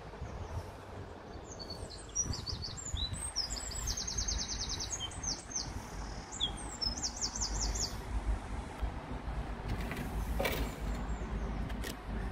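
Small songbird chirping and singing, with quick runs of high trilled notes in the middle, over a low steady outdoor rumble.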